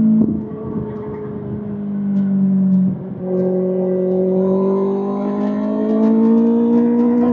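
Kawasaki ZX-6R inline-four engine running through an SC-Project SC-1R aftermarket exhaust. The note dips sharply just after the start and again about three seconds in, then climbs slowly and steadily.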